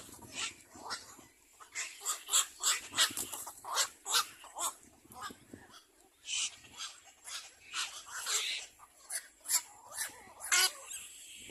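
Young birds giving many short, sharp calls in quick, irregular succession.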